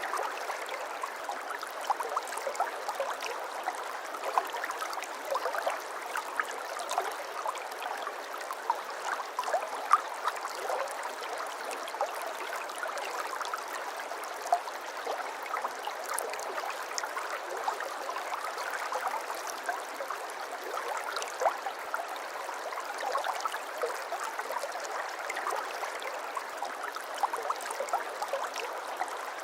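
Gently flowing stream water, babbling steadily, with many small splashes and plinks over an even rush.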